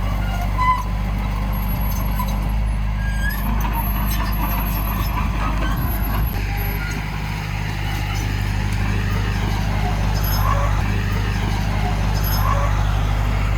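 Heavy diesel engine of an earthmoving machine running steadily, a low even drone.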